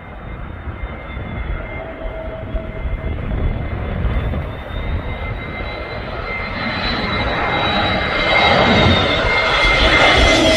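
Airliner flying overhead, its engine noise growing steadily louder as it approaches, with a steady high-pitched whine running through it.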